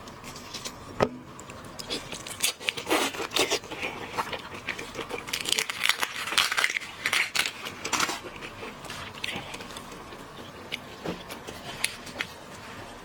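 Mukbang eating sounds: a person handling and chewing food, a string of clicks, crackles and crinkling, busiest in the middle, with one sharp click about a second in.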